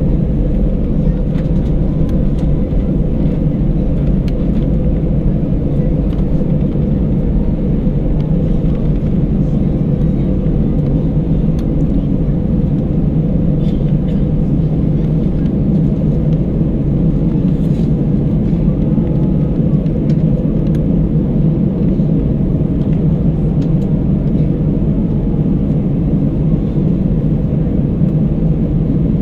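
Steady low rumble of an Airbus A319's engines and airflow, heard inside the passenger cabin. It holds at one level throughout.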